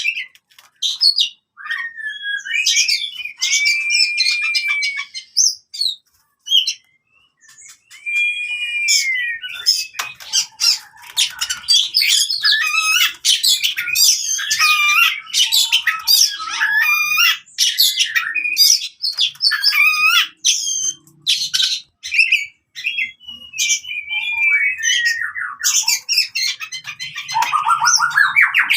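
Oriental magpie-robin (kacer) singing its aggressive 'fighting' song: a loud, varied stream of clear whistles, rapid repeated notes and harsh chattering phrases, with a short pause about a quarter of the way in.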